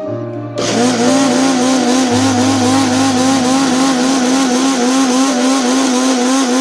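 Electric blender motor running with a steady high whine that wobbles rapidly, beating eggs. It starts up about half a second in and winds down in pitch as it is switched off near the end.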